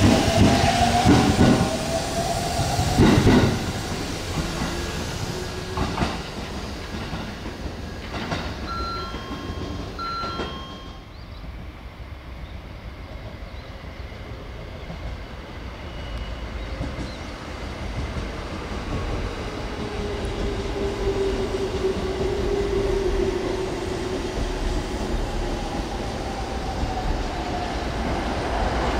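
JR Central 313 series electric trains on the rails: wheels clacking loudly over rail joints in the first few seconds, with a few short high beeps about nine seconds in. After a quieter stretch, another 313 series train approaches, its motor whine and rail noise building toward the end.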